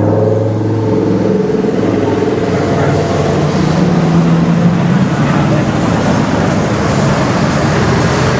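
Supercharged V8 exhaust of an Equus Throwback S, its note rising just before and then holding for a few seconds as the car pulls away. The engine note then fades into street traffic noise.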